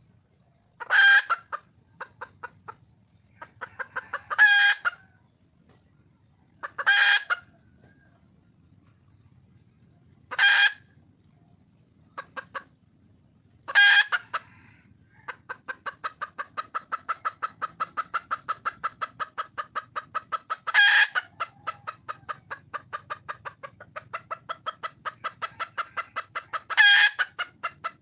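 Red junglefowl hen calling: seven loud, short squawking calls a few seconds apart, with runs of quick clucks between them. From about halfway a rapid, even clucking runs on, several clucks a second.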